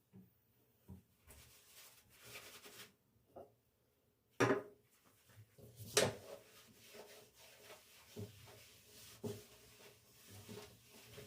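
Household objects being handled: soft rubbing and light clatter, with two sharp knocks about a second and a half apart near the middle.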